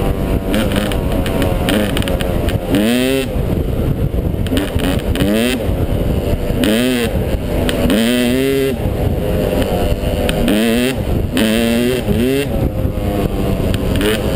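Yamaha 250 dirt bike engine under repeated throttle, its pitch climbing and dropping over and over as the rider opens and closes the throttle.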